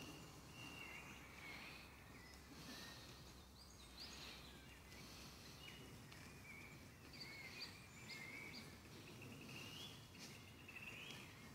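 Faint songbirds singing, many short whistled chirps and phrases, over a low steady background noise.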